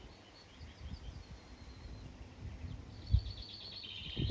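Birds singing in the background: quick trills of short, high repeated notes early on and again near the end. There is a brief low thump about three seconds in.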